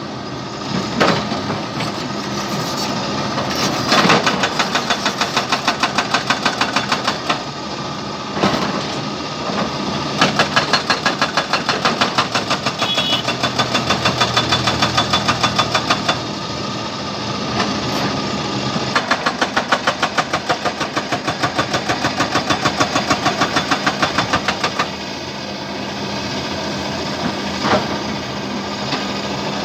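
Jackhammer breaking material, hammering in spells of several seconds at roughly three blows a second, over a steadily running engine. The hammering stops and starts several times.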